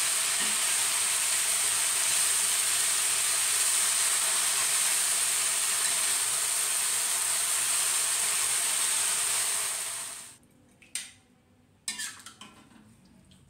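Fern leaves stir-frying in a hot wok: a steady sizzle as a metal spoon stirs them, cutting off abruptly a little past ten seconds in. Then a few sharp clinks of the metal spoon against the wok.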